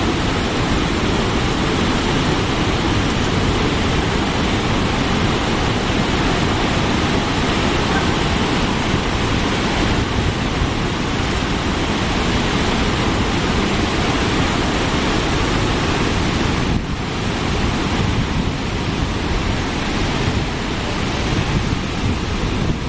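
The Great Falls of the Passaic River in flood after Hurricane Irene: a loud, steady rush of heavy falling water, with a brief dip about seventeen seconds in.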